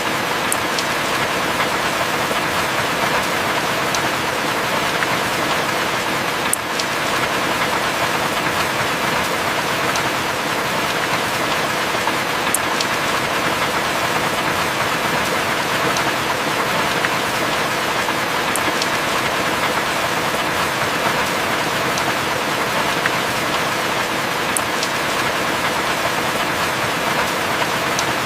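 Heavy rain falling steadily, an even dense hiss, with faint sharp ticks about every six seconds.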